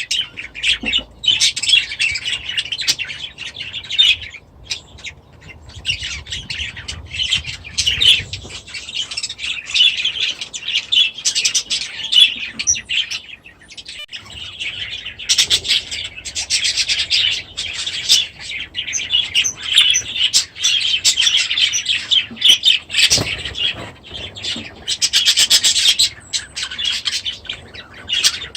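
A flock of small caged aviary birds chattering and chirping continuously, with a couple of brief lulls.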